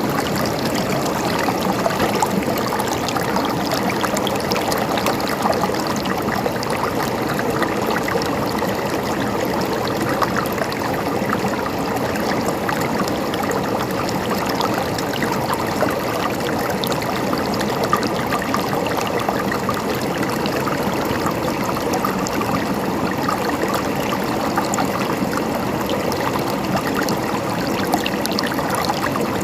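A river flowing and gurgling over stones, as a steady rush of water.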